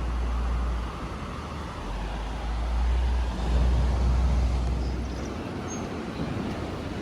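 Ocean waves washing on the beach, swelling about halfway through, with wind buffeting the microphone as a low rumble that comes and goes.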